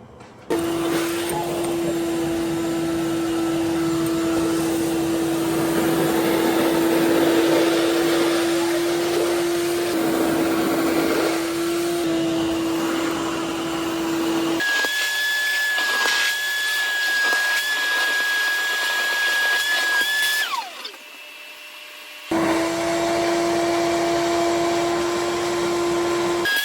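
Vacuum cleaner motor running with a steady whine over a rush of air. The whine jumps to a higher pitch about halfway through, drops away briefly, comes back at the lower pitch and goes high again near the end.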